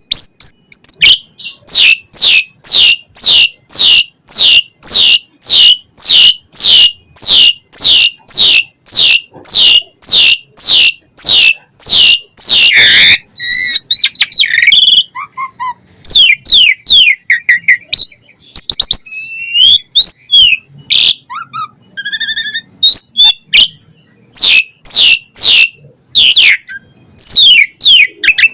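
Asian pied starling (jalak suren) in full song. For about twelve seconds it repeats a loud, high note that sweeps downward, about two a second. After one harsh, noisy call, it switches to varied chatter of whistles, rapid buzzy trills and glides.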